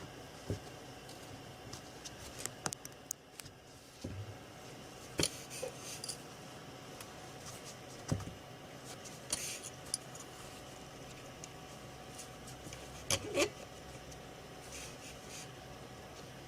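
Scattered small clicks, taps and light scrapes of handling on a workbench over a faint steady hum, with a few sharper clicks about five, nine and a half and thirteen seconds in.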